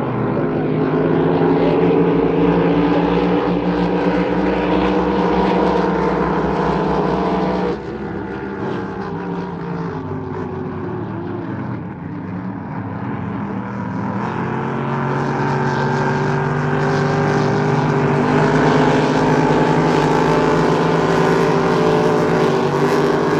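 Motorboat engine running hard under race throttle. The sound drops suddenly about eight seconds in, then builds again from about twelve seconds on.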